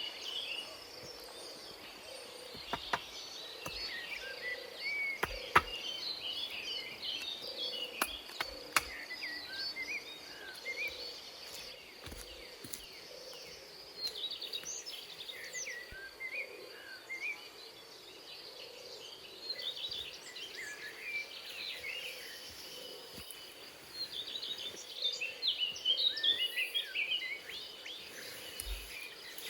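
Forest ambience: many birds chirping and calling over a steady high-pitched insect drone, with a few sharp knocks about three, five and eight seconds in.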